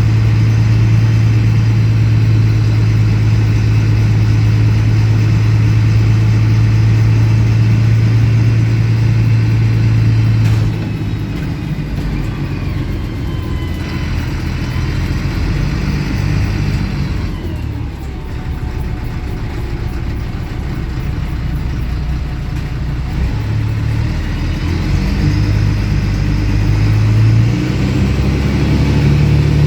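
MAN 18.220 bus diesel engine and exhaust heard from on board, with an exhaust louder than usual for this bus. It pulls with a strong steady drone, drops off suddenly about a third of the way in as the bus eases off, runs lower and uneven with faint whines, then builds again near the end.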